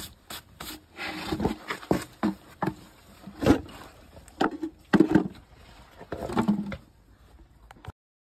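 Farrier's tools working a Shire horse's hoof: a series of irregular scraping strokes on hoof horn. The sound cuts off abruptly near the end.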